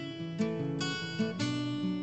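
Acoustic guitar strumming chords in a steady rhythm, with the chord changing about every half second: the instrumental intro of a live song.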